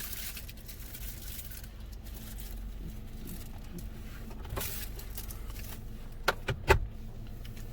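Steady low rumble heard from inside a car, with a short click about four and a half seconds in and a quick run of three clicks and knocks near the end.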